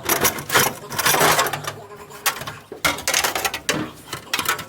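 Irregular mechanical clattering and clicking of hand work on metal parts, in quick uneven bursts.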